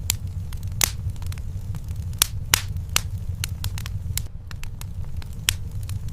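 Wood fire burning in a fireplace: a steady low rumble with irregular sharp crackles and pops, a few of them louder snaps.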